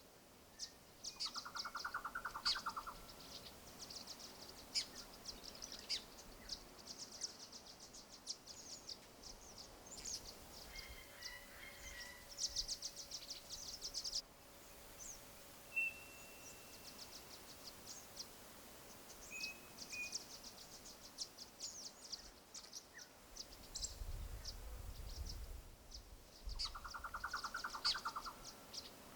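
Small birds chirping: many short, high chips and rapid chittering trills, with a fast buzzing call near the start and again near the end. A brief low rumble comes a few seconds before the end.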